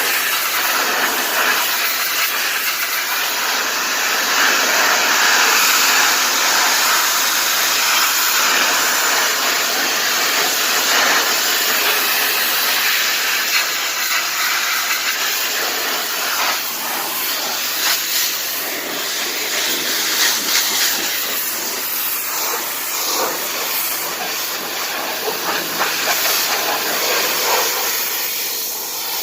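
High-pressure washer spray hissing steadily against a car's body, the sound swelling and easing a little as the jet moves over the panels.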